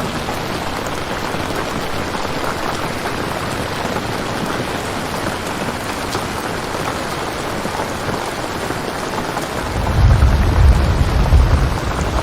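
Steady rain ambience, with a low rumble of thunder coming in about ten seconds in.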